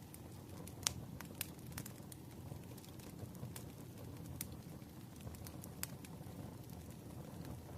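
Crackling fire ambience with soft rain: sharp, irregular pops of burning wood over a steady low rumble, the loudest pop just under a second in.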